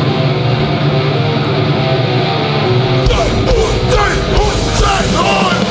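Hardcore punk band playing live: distorted electric guitar ringing out, then the full band comes in heavier about three seconds in.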